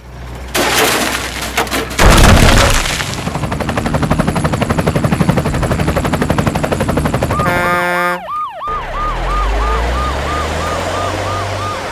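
Action sound effects: a loud crash of noise, then a fast rattling like gunfire. Then a police siren yelps rapidly, about three rises and falls a second, over a low engine rumble.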